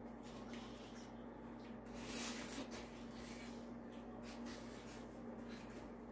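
Faint, repeated scraping and rustling sounds, loudest about two seconds in, over a steady low hum.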